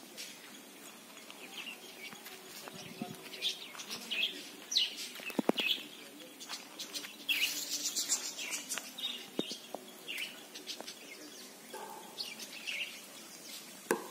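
Small birds chirping repeatedly, short calls scattered throughout, with a few sharp knocks, the loudest about halfway through.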